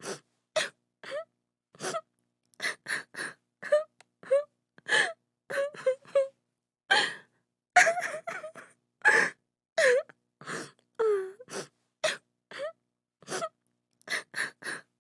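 A woman crying in short, broken sobs and gasping breaths, one after another with brief silences between, some sobs bending down in pitch.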